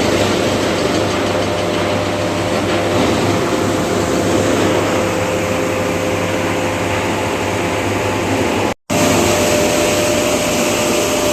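Yulong T-Rex wood chipper running with a loud, steady mechanical roar and hum. The sound cuts out for a split second about nine seconds in, then carries on unchanged.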